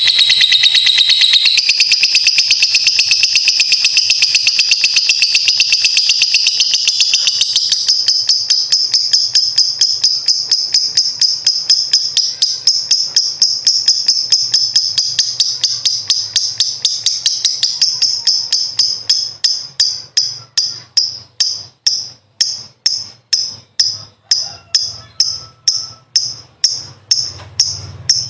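Lovebird's long 'ngekek' trill: a loud, high-pitched, rapid chattering run that slows about two-thirds of the way through into separate chirps, about two a second near the end.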